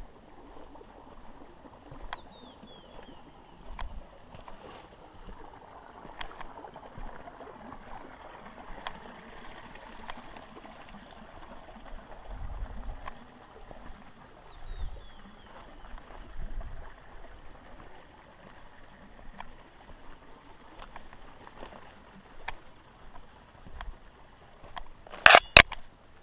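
Creek water running steadily, with a small bird twice singing a quick descending run of high whistled notes. A few loud knocks come near the end.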